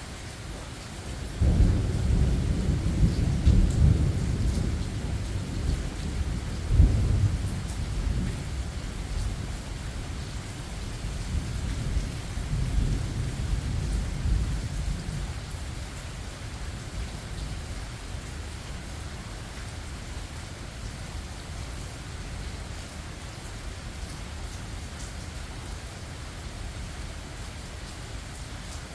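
Thunder over steady rain. A deep rumble breaks in about a second and a half in, with a sharper clap a few seconds later, then rolls away and dies out around the middle, leaving the rain.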